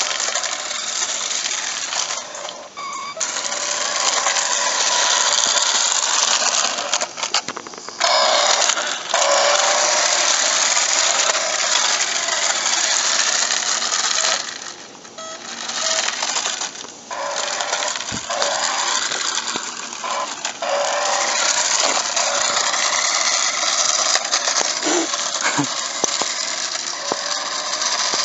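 Toy remote-control police car's small electric drive motor and plastic gears running with a buzzing rattle, cutting out briefly several times as the car is driven in bursts.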